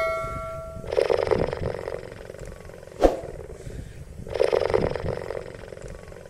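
Cheetah giving two rasping, pulsing calls about a second long each, the first about a second in and the second just past the middle. A ringing chime fades away at the start, and a single sharp click sounds in between the calls.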